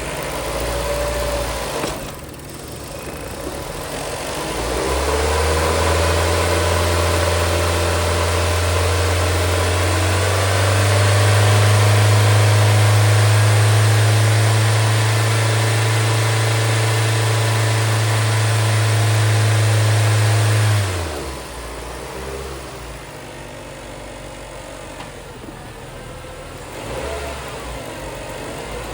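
2019 Nissan Versa's 1.6-litre four-cylinder engine running on a stand test: at a low speed at first, then raised to a higher steady speed for about fifteen seconds, stepping up once more partway, before dropping back to a low steady speed about two-thirds of the way through.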